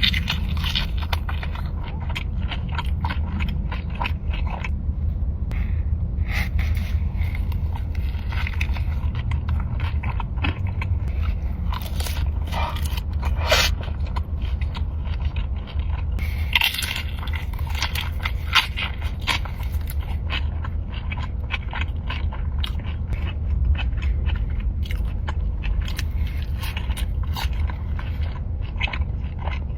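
Close-miked eating sounds: crunching bites and chewing, a dense run of crackles and clicks over a steady low rumble.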